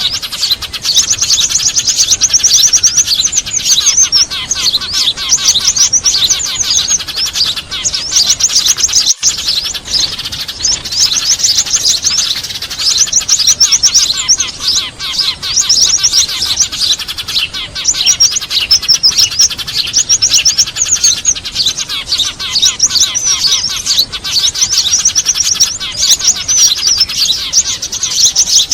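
Dense, continuous chattering of many small birds, rapid high chirps overlapping without pause, a bird-lure recording meant to draw small birds to a trap.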